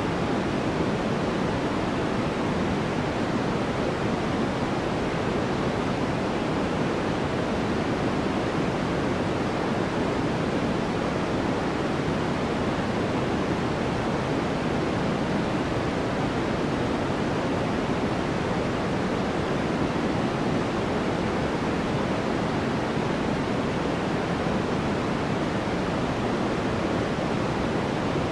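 Steady white noise, a synthetic hiss that never changes over the whole stretch, fuller in the lower-middle range than at the top.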